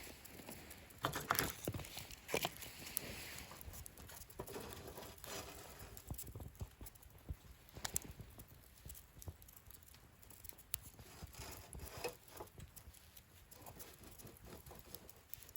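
Wood fire crackling in a fire-pit stand, with irregular sharp pops and snaps over a soft hiss; the loudest snaps come about a second in.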